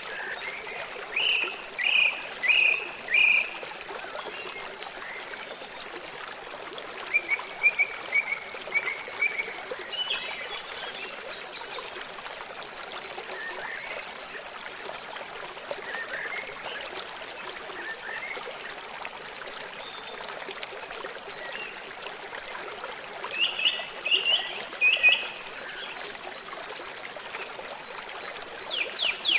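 Forest stream running steadily, a continuous rush of water. Over it come short groups of three or four chirping animal calls near the start, around a third of the way in, and again near the end.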